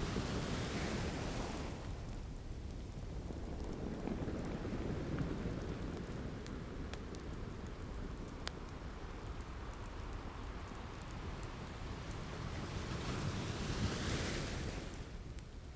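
Ocean waves breaking and washing up on a beach: one wash fading out in the first couple of seconds and another swelling in near the end, over a steady low rumble of surf. Scattered small pops and crackles of a wood fire sound through it, one sharper pop near the middle.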